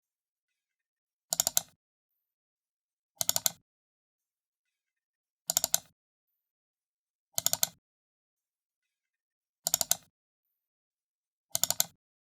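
Computer mouse button double-clicked six times, about every two seconds, each double-click a quick cluster of sharp clicks, with silence between.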